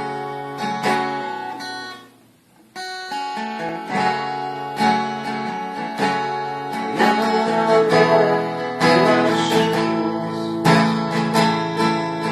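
Acoustic guitar playing a song's instrumental intro, chords strummed and plucked, with a brief break about two seconds in.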